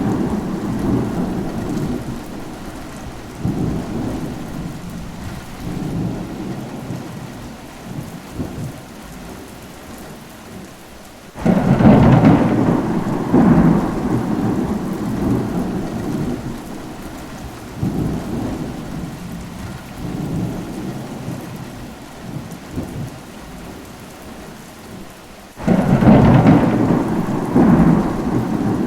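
Rain with thunder: a thunderclap breaks in suddenly about a third of the way in and again near the end. Each rolls on with a few louder swells and fades over several seconds, with steady rain underneath.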